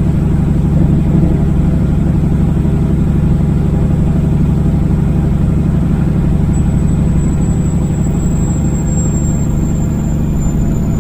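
Kenworth W900 semi truck's diesel engine running steadily on the road, with road noise, heard from inside the cab.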